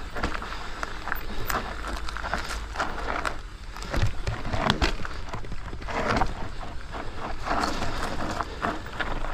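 Bike being ridden down a rough, technical trail: tyres rolling over rocks and roots with frequent knocks and chain and frame rattle, and rougher, louder hits about four and six seconds in.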